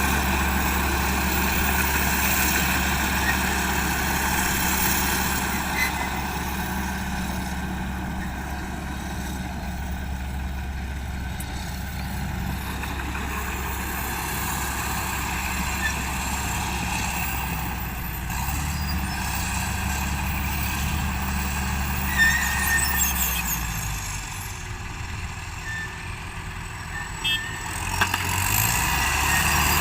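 Hino Dutro dump truck's diesel engine running steadily. Its note drops lower for a few seconds near the end, then picks up again.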